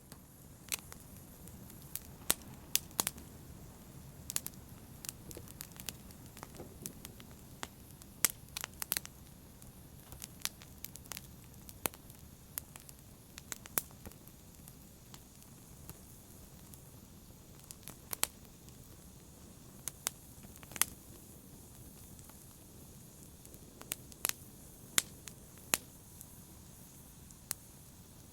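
Wood fire in a fireplace crackling: irregular sharp pops and snaps over a soft steady hiss and low rumble of the flames.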